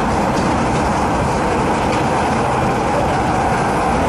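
MTR East Rail Line MLR electric multiple-unit train running at speed, heard from inside the carriage: a steady, dense rumble of wheels on rails and traction equipment, with no separate events.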